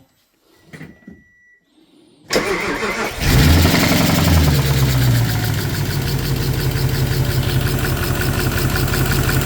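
Audi A8 3.7 V8 engine being started: a short beep, then about a second of starter cranking before it catches, revs briefly and settles into a steady idle. The engine has a knock, which is the fault under investigation.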